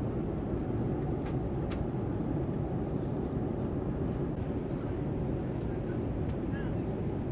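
Steady cabin noise of a Boeing 787-9 airliner in flight: a constant rush of airflow and engine sound, with a few faint clicks in the first two seconds.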